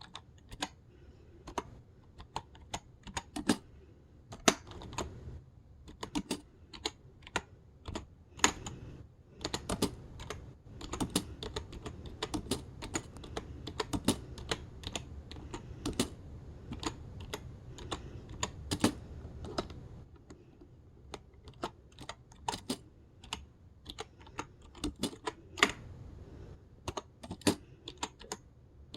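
Typing on a typewriter-style wireless keyboard: quick, irregular runs of clacking keystrokes with short pauses between them. A low hum sits underneath through the middle stretch.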